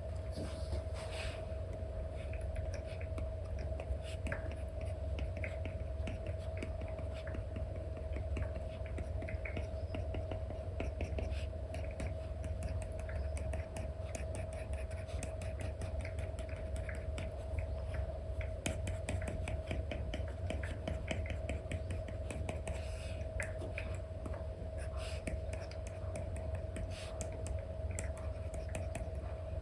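Apple Pencil stylus with a replacement Elecom nib tapping and stroking across an iPad's paper-like screen film: a run of light, irregular scratchy strokes and clicks over a steady low hum.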